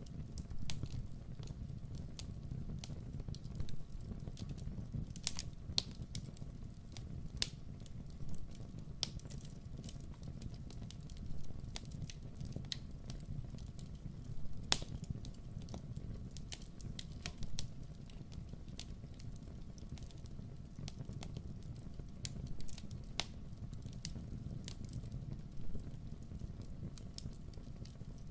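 Wood fire crackling in a fireplace: irregular sharp pops and snaps, the loudest about halfway through, over a steady low rumble of the burning.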